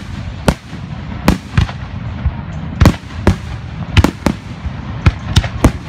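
Fireworks going off: about ten sharp bangs at irregular intervals, some in quick pairs, over a steady low rumble.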